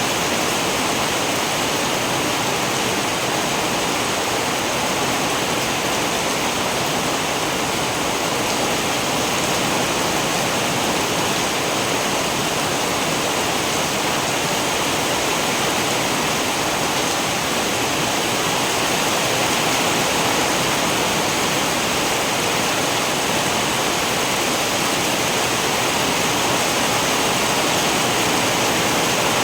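Steady, unbroken rain: an even hiss of heavy rainfall with no single drops or thunder standing out.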